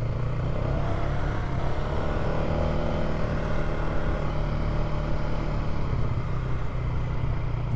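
Polaris ATV engine running at a steady pace while riding along a dirt trail: an even, unbroken hum.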